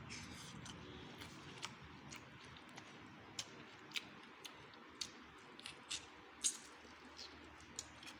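Someone eating chicken biryani close to the microphone: soft chewing with irregular small wet mouth clicks and smacks, one louder smack about six and a half seconds in.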